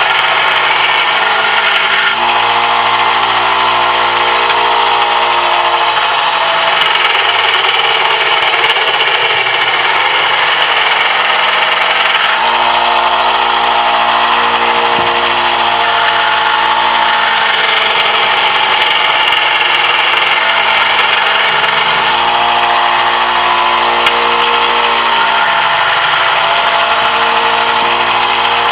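Electric power tool running continuously while working brass, its pitch and tone shifting every few seconds.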